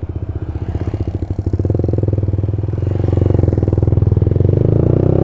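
Old Honda CB150R's single-cylinder engine through an aftermarket DOS Muffler full-system exhaust, pulling under way with a rapid, even exhaust beat. It grows louder and rises in pitch as the bike accelerates.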